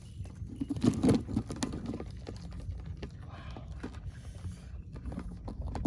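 Irregular clicks and wet scuffling of hands working in mangrove mud and water while catching crabs, busiest about a second in.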